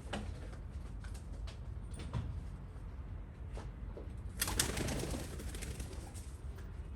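Domestic pigeons cooing over a steady low rumble, with a louder flurry of sound about four and a half seconds in.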